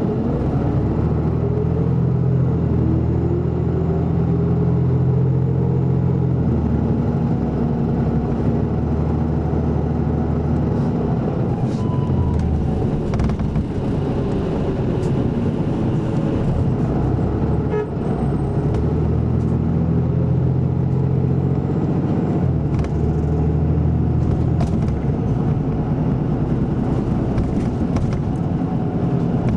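Isuzu Erga Mio city bus with an Aisin automatic transmission running. The diesel engine's pitch rises as the bus pulls away and climbs through the gears, then the engine note shifts and settles as it carries on in traffic.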